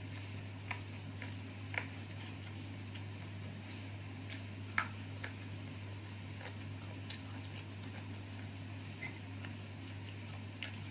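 A person eating: a few scattered small clicks and taps, the sharpest about five seconds in, over a steady low hum.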